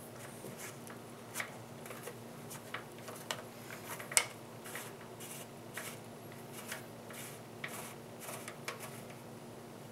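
Irregular small clicks and light scrapes of tiny screws and a screwdriver being worked into an optical drive's mounting holes in a metal PC case, with one sharper click about four seconds in.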